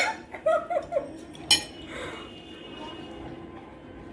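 A metal spoon clinking against a dish twice, once at the start and once, brighter and briefly ringing, about a second and a half in, as watermelon pieces are scooped up.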